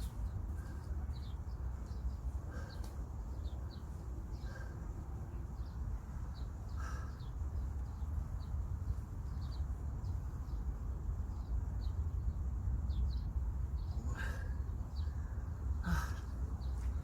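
Small birds chirping in short, repeated calls over a steady low rumble, with a couple of sharp knocks near the end.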